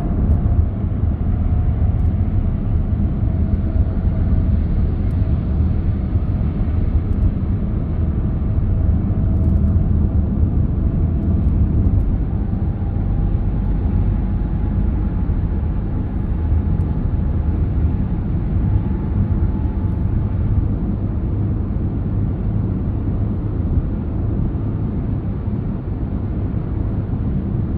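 A car driving along a road: steady rumble of road and tyre noise with a faint whine that drifts slowly in pitch.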